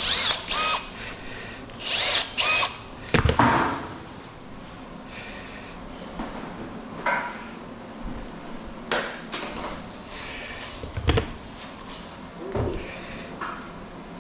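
Tools working scrap wire and metal in short, separate bursts of grinding and squealing, loudest in the first few seconds. Quieter scrapes follow, with a sharp knock about eleven seconds in.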